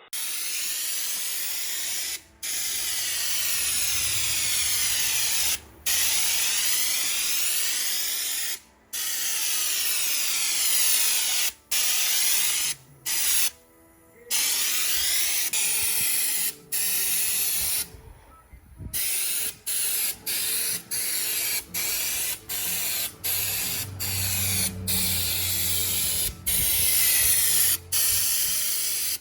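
Air-powered bed liner spray gun hissing in stretches of a few seconds, stopping briefly each time the trigger is released. In the second half the bursts get shorter, about one a second.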